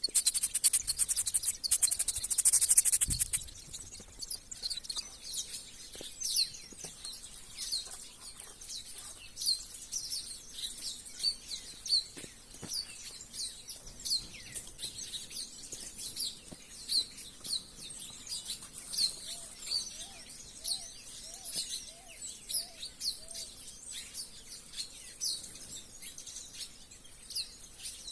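A flock of small birds chirping busily, with many short, high calls overlapping and coming thick and fast. For the first three seconds a loud, rapid, high pulsing buzz sits over them, and around two-thirds of the way through a lower call repeats about seven times.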